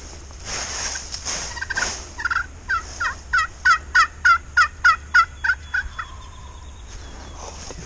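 Turkey yelping: a run of about a dozen evenly spaced yelps, about three a second, building up and then fading, after a few soft rustles in the first two seconds.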